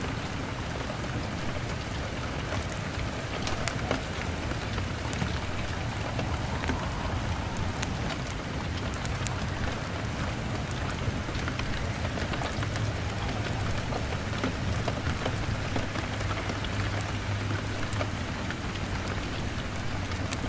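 Steady rain on a window, an even hiss of drops, with scattered sharp ticks and pops through it and a low steady rumble underneath that grows a little stronger about two-thirds of the way in.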